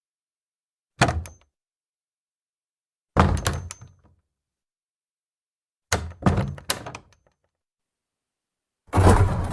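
Old wooden cellar door with an iron handle making a series of separate thunks and knocks, with dead silence between them: a sharp thunk about a second in, a heavier thunk near three seconds, two or three knocks in quick succession around six seconds, and a longer run of rattling knocks starting near the end.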